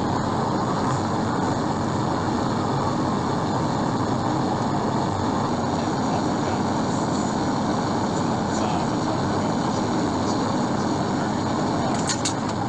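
Steady rush of road and wind noise from a police cruiser driving fast, heard through its dashcam. A few sharp clicks near the end.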